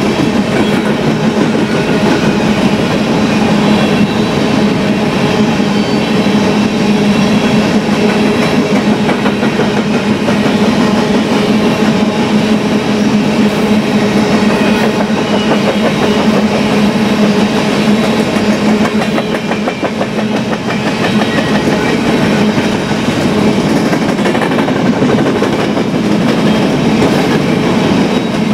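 Freight train of covered hopper cars rolling past close by: steel wheels rumbling and clacking on the rails, with a steady low hum underneath.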